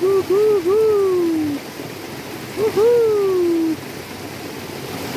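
A bird calling in low hooting notes: two short rising-and-falling notes and a long falling note, repeated about two and a half seconds later as a short note and a long falling one, over the steady rush of stream water.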